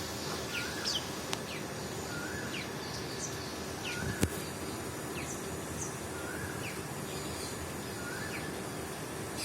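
Small birds calling over a steady outdoor hiss: one short rising-and-falling call repeats about every two seconds, mixed with brief high chirps. A single sharp click about four seconds in.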